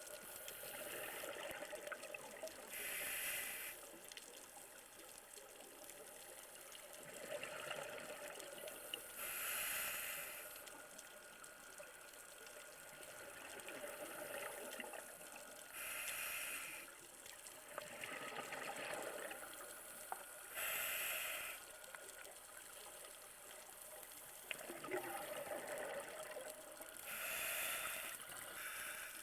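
Scuba diver breathing through a regulator underwater: a hiss and a rush of exhaled bubbles repeating about every six seconds, five breaths in all.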